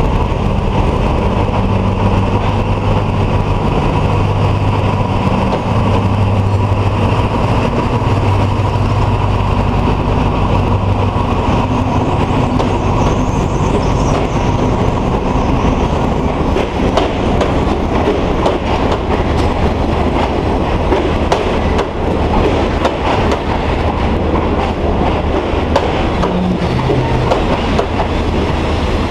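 Diesel locomotive running as it hauls a passenger train slowly into the platform, its steady low engine hum strongest in the first ten seconds or so. Then the passenger coaches roll past, wheels clacking over the rail joints.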